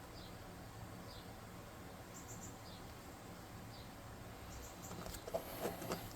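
Faint high-pitched chirps in quick little groups every second or two, with a cluster of small clicks and knocks about five seconds in.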